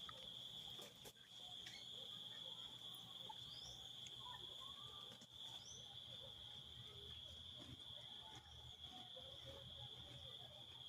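Faint, steady, high-pitched insect drone like a cricket, with a few short rising bird chirps over it.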